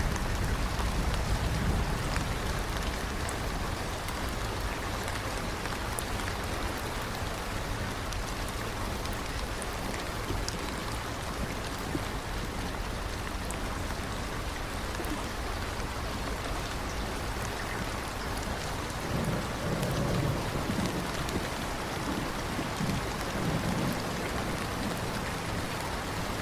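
Steady, heavy rain falling on surfaces, with low rumbles of distant thunder swelling near the start and again about two-thirds of the way through.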